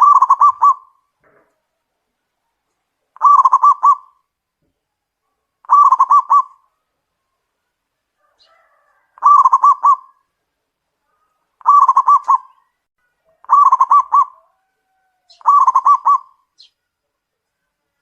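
Zebra dove (perkutut) cooing: seven short phrases of rapid staccato notes, one every two to three seconds.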